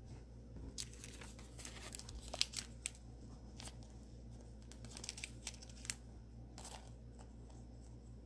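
Soft plastic crinkling and light rustling, in scattered short bursts, as trading cards are handled and pushed into a soft plastic card sleeve.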